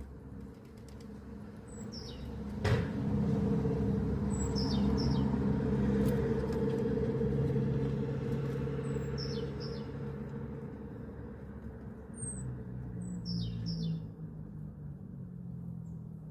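Small birds giving short, high, falling chirps in little groups every few seconds, over the low steady rumble of a passing motor vehicle. The rumble swells with a sharp click about three seconds in, then slowly fades.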